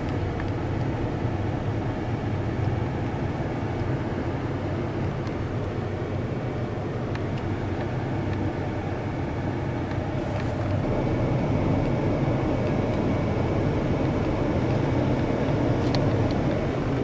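Truck engine idling steadily, heard from inside the closed cab as a low, even rumble.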